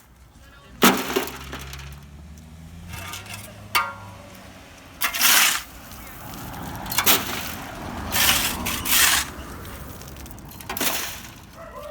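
Rubble and debris being shovelled and dumped: a loud crash about a second in, then several short scraping, crunching bursts.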